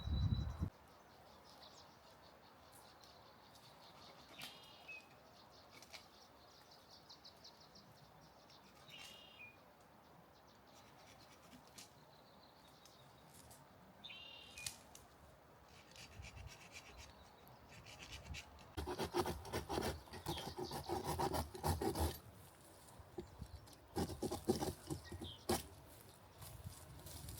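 Quiet forest with a few short bird calls, then two spells of close scraping and rustling about two-thirds of the way in and near the end, like hands working with something rough.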